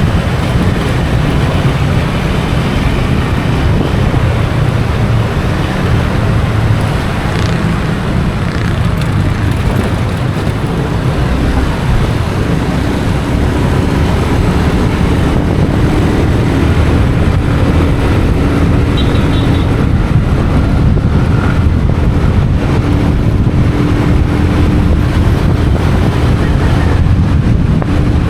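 Motorcycle engine running under way, with heavy wind rushing over the microphone and road traffic noise around it; a faint steady engine tone comes up about halfway through.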